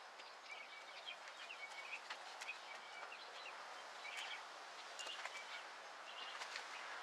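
Small birds chirping faintly in short repeated calls, over a steady low hiss of outdoor background noise.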